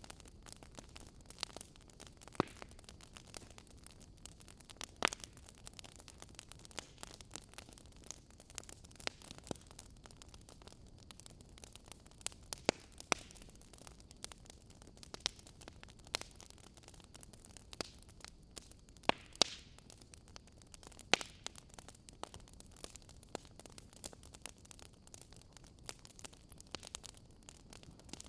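Fire crackling in a fireplace: a soft steady hiss with irregular sharp pops and snaps, a handful of them louder than the rest.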